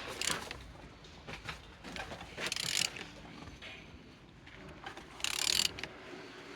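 Mercedes OM646 four-cylinder diesel engine being turned over by hand, with mechanical clicking and ratcheting in three louder bursts about half a second, two and a half and five seconds in. The engine turns freely, a sign that it is not seized.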